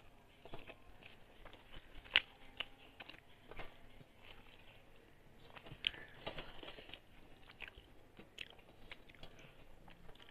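Close-up sounds of a person eating rice by hand: chewing and biting with scattered sharp clicks, the loudest about two seconds in and near six seconds.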